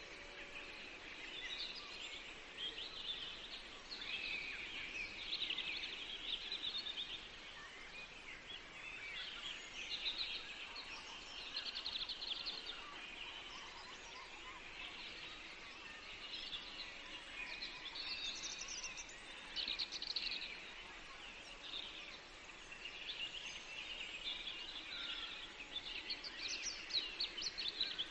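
Several songbirds singing at once, a dense chorus of overlapping short high chirps and trills, over a soft steady background hiss.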